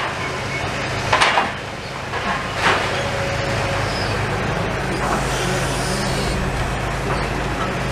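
A large engine running steadily, with a sharp bang about a second in and another near three seconds.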